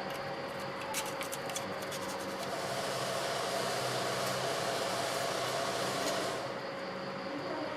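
A steady rush of blowing air, like a blower or air nozzle, starting about two and a half seconds in and stopping after about four seconds, over a steady hum, with a few light clicks near the start.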